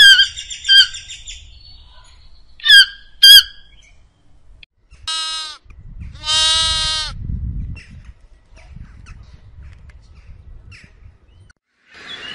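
A bird calling: a few short calls, then two loud squawks. Then lambs bleat twice, the second bleat longer.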